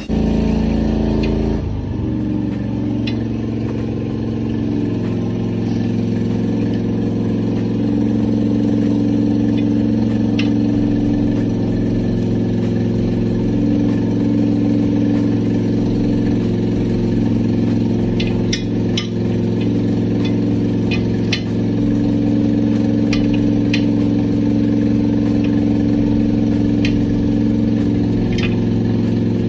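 Truck engine idling steadily, with scattered sharp clicks over it, several of them in the second half.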